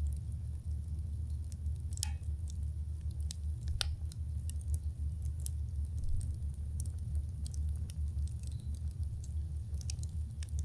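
Wood campfire crackling: scattered sharp pops and snaps, louder ones about two and four seconds in, over a steady low rumble.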